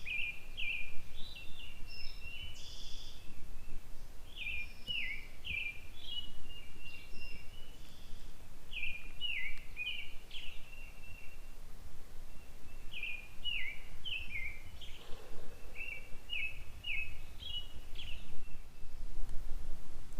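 A songbird singing repeated phrases of short, quick down-slurred notes, a phrase every few seconds, over a low wind rumble on the microphone.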